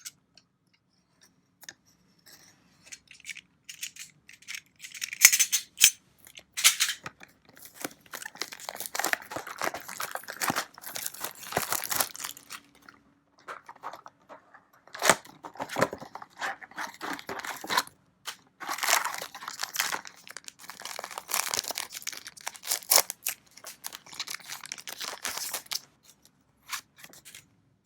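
Trading-card packaging being torn open and crinkled by hand, in irregular bursts of tearing and rustling that start a few seconds in and stop shortly before the end.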